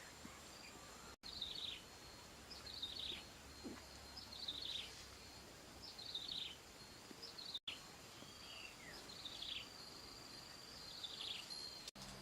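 A bird repeating a short, falling call about every second and a half, over a steady high insect whine.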